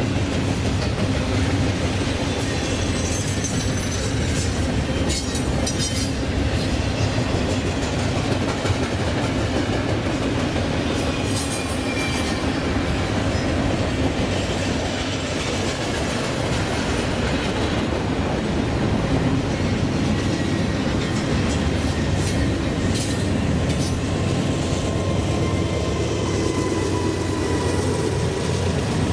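Train running past on the rails: steady wheel-on-rail noise with scattered sharp clicks and, now and then, a faint high wheel squeal.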